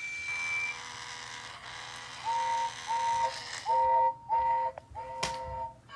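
Battery-powered talking toy train engine playing its electronic whistle through its small speaker: five short toots, evenly spaced, starting about two seconds in, with a single click near the end.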